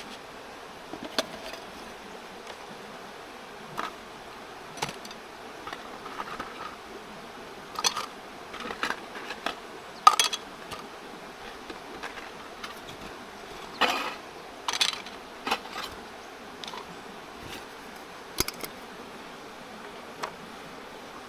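Irregular rustles, clicks and light knocks from things being handled by hand, over the steady hiss of a mountain stream.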